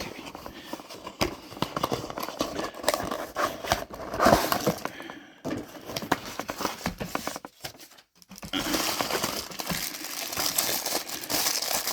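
Cardboard box and plastic packaging of an action figure being handled and opened, with irregular crinkling, rustling and small clicks.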